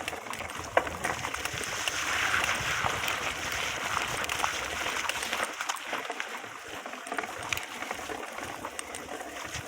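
Water running over rocks in a stream, a steady rushing hiss with scattered small ticks and knocks.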